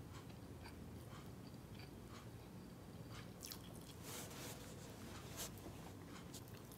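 Faint chewing and wet mouth sounds of someone eating rice and roast chicken, with scattered soft clicks, over a low steady hum.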